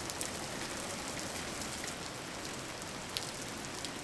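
Steady rain falling, an even hiss with scattered drop ticks and one sharper drip about three seconds in.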